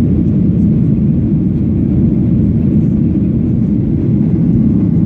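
Steady low rumble inside the cabin of a Boeing 737-800: its CFM56 jet engines and the airflow, running evenly.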